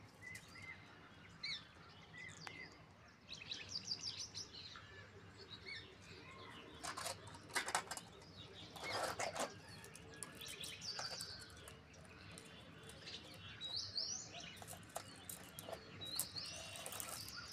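Faint bird chirps: many short, high calls scattered throughout, some rising near the end, with a few brief soft rustles around the middle.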